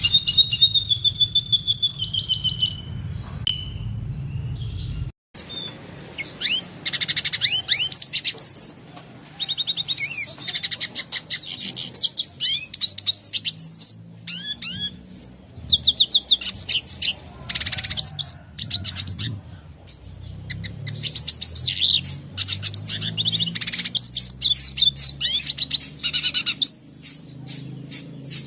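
Red siskin singing: rapid, high twittering phrases and trills, one after another with short pauses.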